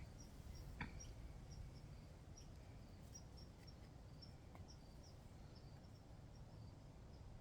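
Near silence: faint room tone with faint, high-pitched chirps repeating a few times a second and one small click about a second in.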